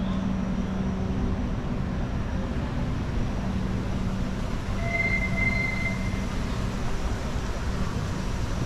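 A steady mechanical rumble with a constant low hum, like a vehicle running, with a brief high squeal about five seconds in.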